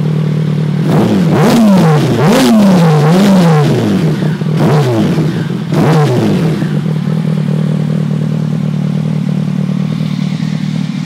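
Yamaha R1's inline-four engine breathing through a GPR aftermarket exhaust with its dB killer baffle fitted. It idles, is blipped up and down about five times in quick succession, then settles back to a steady idle.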